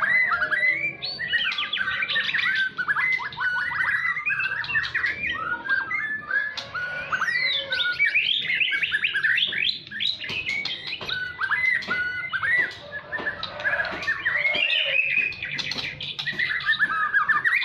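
White-rumped shama (murai batu) singing a long, fast, varied song of rising and falling whistles and trills, with no break.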